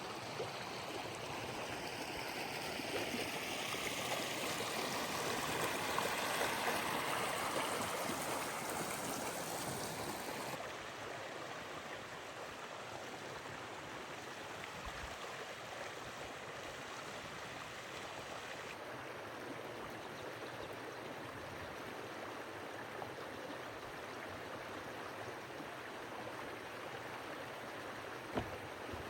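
Running water of a stream, a steady rushing and gurgling. It is louder at first and drops abruptly twice.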